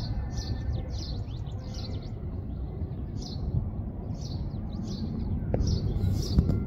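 Small birds chirping, short chirps repeating about twice a second, over a steady distant low rumble from the departing Boeing 737-800's jet engines that grows a little louder near the end.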